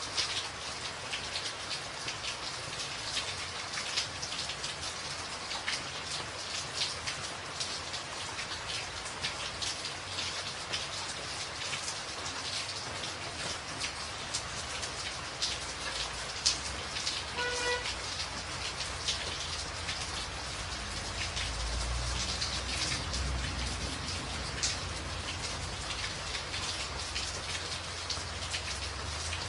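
Steady rain drumming on a tin roof, a dense hiss full of sharp individual drop hits. A low rumble comes in about two-thirds of the way through.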